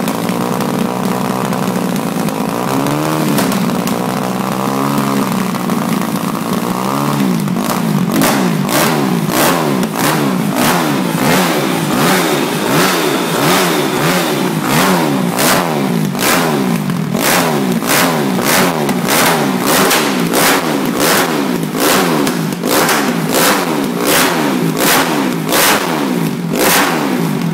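2008 Kawasaki KX250F four-stroke single-cylinder motocross engine idling with a few short throttle blips, then revved up and down over and over in quick succession, about twice a second, from about eight seconds in.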